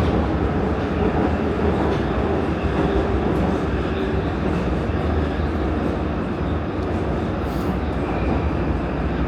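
Prague metro line A train running through a tunnel between stations: a steady, dense rumble of wheels on rail and running gear.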